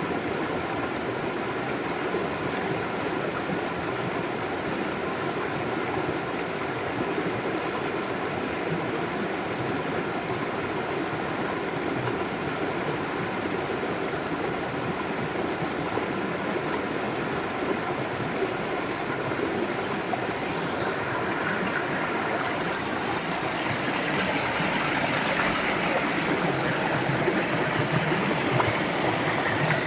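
River water flowing and rushing steadily, growing a little louder and brighter about three-quarters of the way through.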